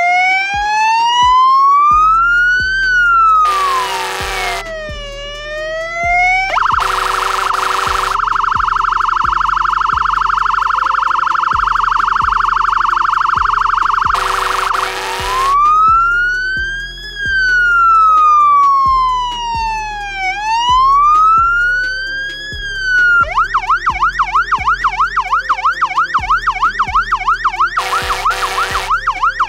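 Scania P410 fire engine's electronic siren wailing up and down in slow sweeps, broken by four short air-horn blasts and a long steady horn tone in the middle, then switching to a fast yelp near the end. Background music with a steady beat runs underneath.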